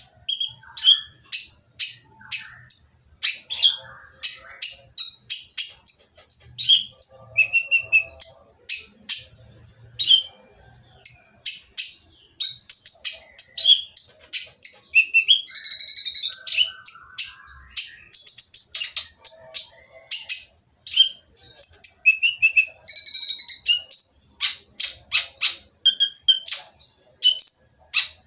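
Kolibri ninja sunbird (konin) calling noisily: a fast, nearly unbroken run of short, high, harsh chirps with only brief pauses.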